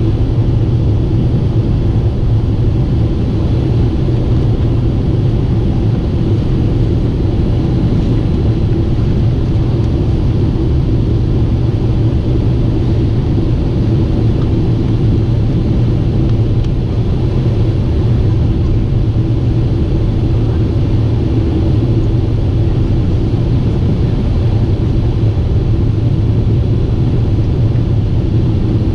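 Steady, loud rumble of a Boeing 747-8 airliner in flight, deep and unchanging, with a faint steady hum above it.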